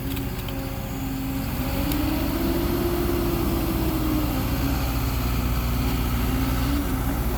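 Diesel engine of heavy earthmoving machinery running steadily, its pitch rising a couple of seconds in and easing back down.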